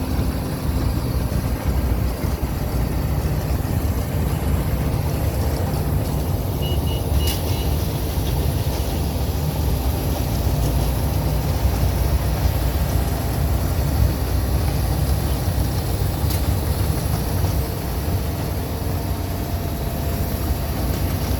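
Steady low vehicle engine rumble, with four short high beeps about seven seconds in.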